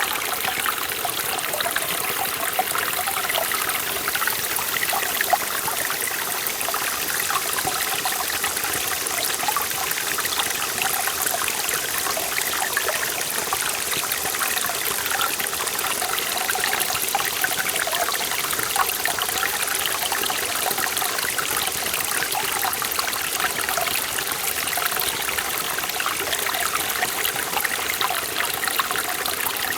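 Mountain stream in a forest valley, water running and splashing over rocks in a steady, even rush with fine trickling detail.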